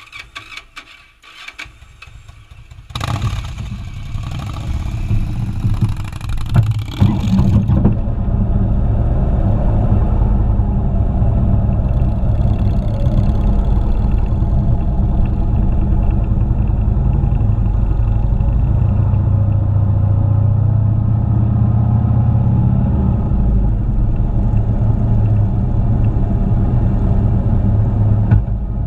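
Motorcycle engine: a few clicks, then it comes in loudly about three seconds in and runs on steadily, its pitch rising and falling a little as the revs change.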